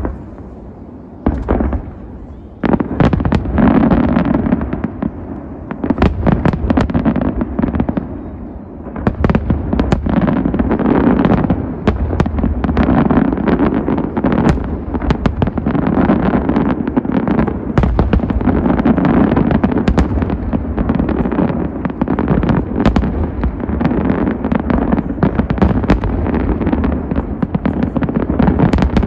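Fireworks display going off: many sharp bangs and crackles overlapping in a dense barrage. It is sparser for the first two or three seconds, then near-continuous, with a brief lull at about eight to nine seconds.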